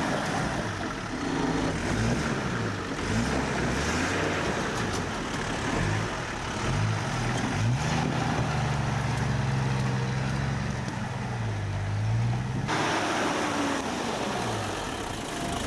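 A 4x4's engine labouring up a steep, rough track, its revs rising and falling again and again under a steady rushing noise. The sound changes abruptly near the end.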